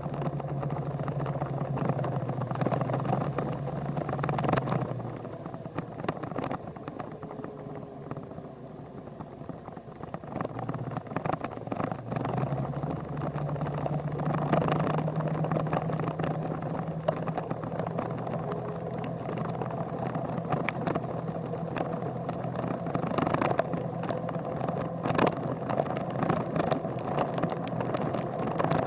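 A vehicle engine running steadily with road noise. Its hum fades for several seconds partway through, then comes back, with scattered clicks and crackles.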